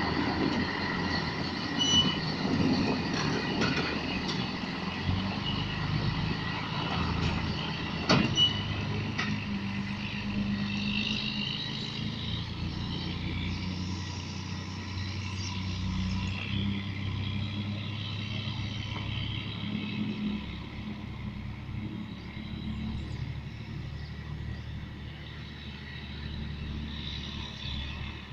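Scania truck engine running steadily, with two short sharp knocks in the first ten seconds, growing slowly quieter toward the end.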